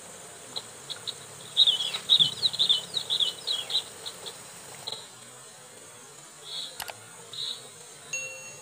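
Prinia (prenjak) calling: a fast run of sharp, high chirps with quick falling notes, densest about two seconds in. Only a few scattered chirps follow later, with a single click near the end.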